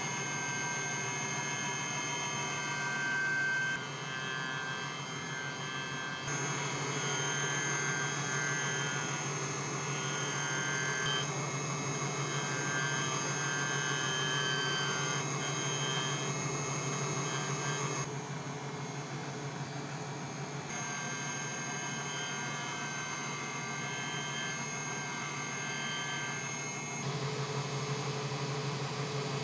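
A machine running steadily: a low electric hum with several thin whining tones above it, the mix changing abruptly every few seconds.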